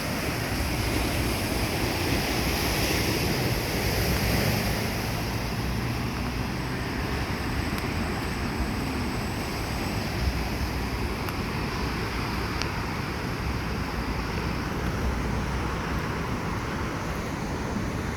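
Steady wash of surf along the bay shore, with wind rumbling on the microphone.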